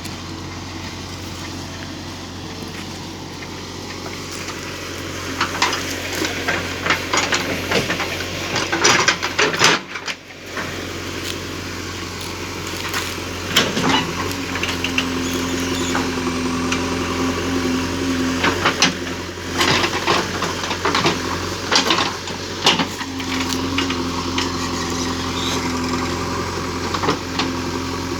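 Engine of a pit-digging machine running steadily, with scattered knocks and rattles as it works the soil. The engine sound drops briefly about ten seconds in, then runs on with a stronger, steadier tone.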